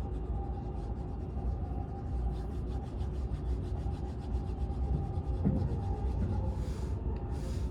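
Cabin running noise of a Seibu 001 series Laview limited express train, heard inside an unpowered control car: a steady low rumble of wheels on the track. Two short hissing rushes come near the end.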